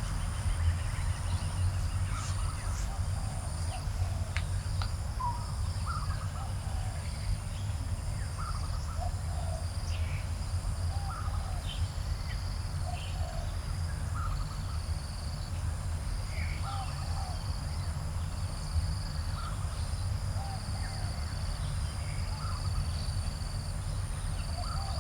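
Garden birds chirping in short, scattered calls over a steady high-pitched insect drone, with a steady low rumble underneath.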